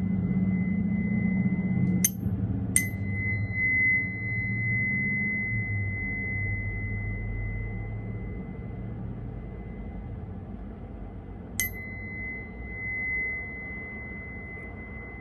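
Tuning fork fitted with an amethyst, struck and left ringing with one steady high pure tone. It is struck again about two seconds in, once more just after, and again near the end, each tap a sharp click that sets the ring going afresh.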